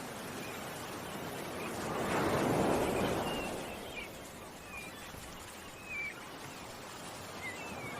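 An ocean wave washes in, swelling about two seconds in and then fading back, while small birds give short high chirps now and then.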